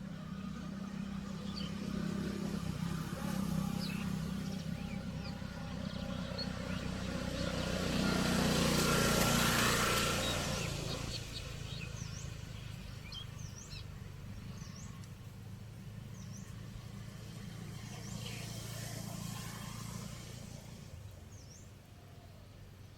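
An engine runs steadily, swelling to its loudest about nine seconds in and then fading, with a smaller swell near the end. Birds chirp briefly throughout.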